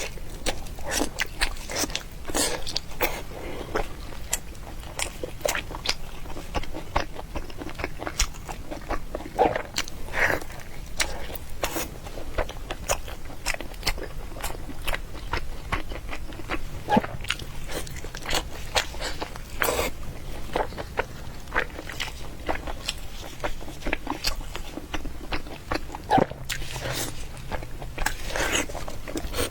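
Close-miked eating sounds: a person biting and chewing food in quick, irregular wet clicks and crunches.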